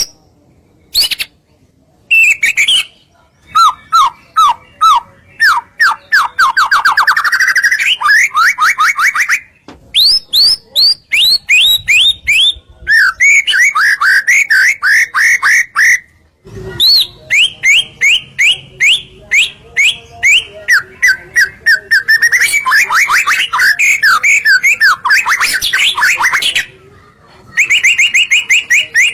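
White-rumped shama (murai batu) singing loudly in long runs of fast repeated whistled notes and trills, breaking off briefly a few times.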